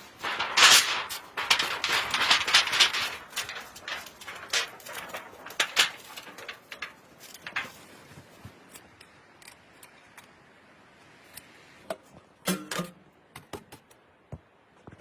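Irregular clicks, rustling and clatter of objects being handled, busiest in the first half, then thinning to a few scattered clicks and a single knock about twelve seconds in.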